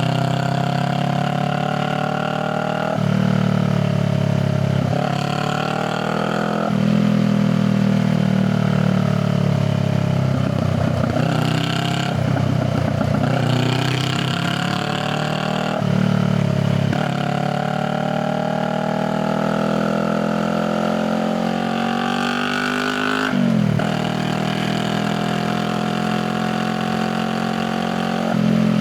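Honda Rebel 500's parallel-twin engine and exhaust under way. The pitch climbs under throttle and drops sharply at each gear change, several times over.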